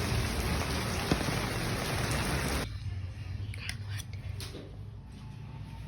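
Steady hiss of rain, cut off abruptly about two and a half seconds in; after that only a few faint clicks and knocks.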